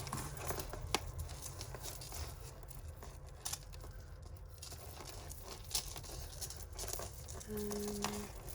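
Costume jewellery being handled and tugged at, as tangled chains are pulled against the wire they are caught in. Scattered light clicks and rustling, with a brief steady hum-like tone near the end.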